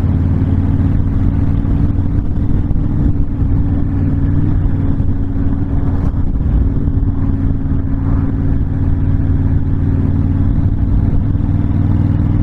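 Honda VTX1300 cruiser's V-twin engine running steadily while the motorcycle cruises along a highway.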